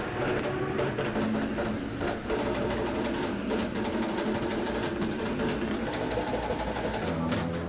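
A small machine running steadily, with many rapid irregular clicks over its hum.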